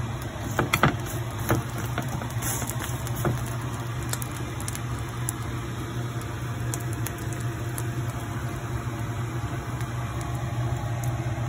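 Egg patties frying in a cast-iron pan: a steady sizzle with a few sharp pops in the first three seconds, over a steady low hum.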